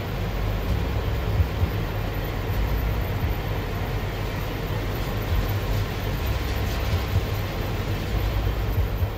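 Car engine running, a steady low rumble with a hiss over it, while the alternator charges the electrical system.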